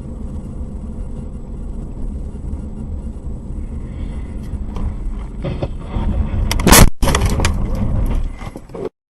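A car on the move, with a steady low engine and road rumble. About six and a half seconds in comes a loud bang, then a second or two of scraping and clattering noise, and the sound cuts off.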